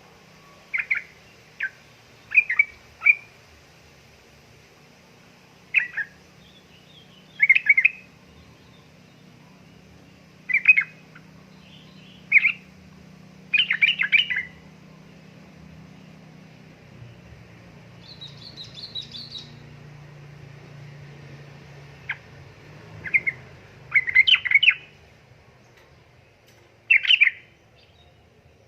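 Yellow-vented bulbul (trucukan) giving short, loud chattering call phrases, about a dozen, spaced a second to several seconds apart. A fainter, higher twitter comes once about two thirds of the way through.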